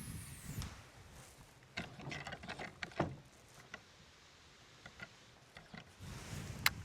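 Scattered light knocks and clicks with brief rustles, with one sharp click near the end: fishing gear being handled aboard a small boat.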